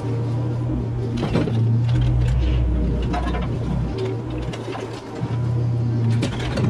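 Mini excavator's diesel engine running with a low hum that shifts in pitch as it works, with scattered knocks and scrapes from the bucket working the ground.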